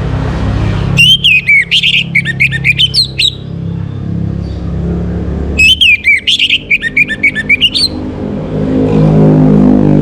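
Orange-headed thrush singing two loud phrases of quick, varied rising and falling whistled notes, about two seconds each. A low steady hum runs underneath and swells near the end.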